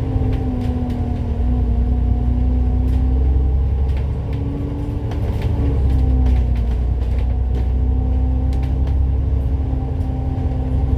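Citybus bus under way: a steady low engine rumble with a drivetrain whine that drifts slightly up and down in pitch, and scattered light rattles and ticks.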